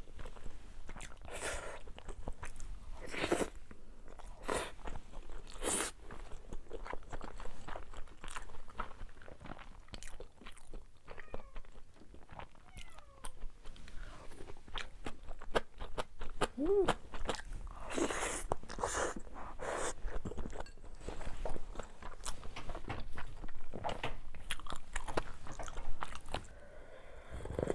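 Close-miked eating sounds: a person chewing and biting food, with many small wet mouth clicks and crunches at an irregular pace.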